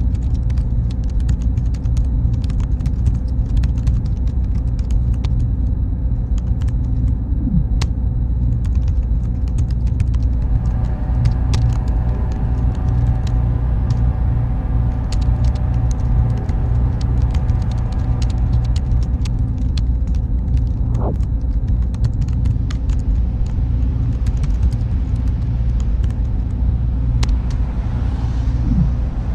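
Steady low machine rumble of server-room ambience, even in level throughout, with faint steady hum tones and many small scattered clicks.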